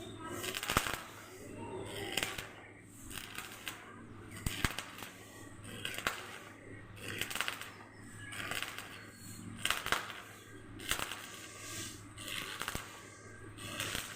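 Repeated noisy strokes with sharp clicks, roughly one every second and a half, over a steady low hum.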